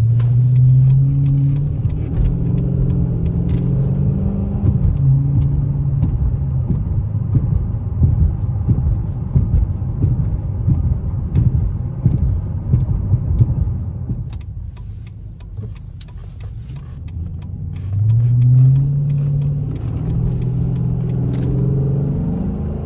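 Chrysler 300C SRT8's Hemi V8 exhaust on a gentle acceleration pull: the engine note rises and steps down at each upshift in the first few seconds, then settles into a steady cruise. It goes quieter about two-thirds of the way through, then rises again with more upshifts near the end.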